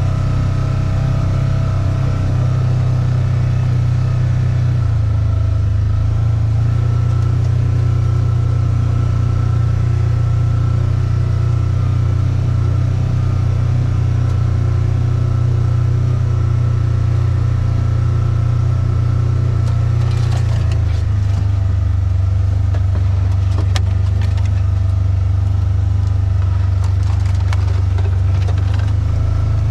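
A car engine and road noise while driving: a steady low drone that shifts pitch slightly twice, with a few faint clicks in the second half.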